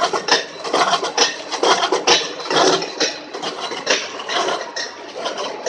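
Metalworking shop noise: a dense, irregular run of sharp metallic clicks and crackle over a rough scraping hiss.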